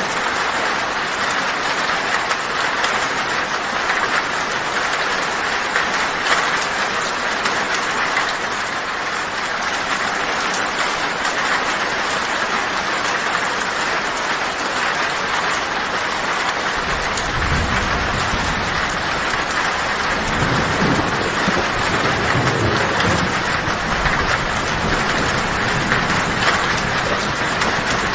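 Heavy rain drumming steadily on a tin roof; about two-thirds of the way through, a low rumble of thunder comes in beneath it and keeps rolling.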